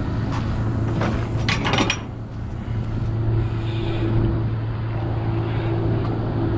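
Vehicle engine running steadily with a low, even hum, with a few short knocks about a second and a half in.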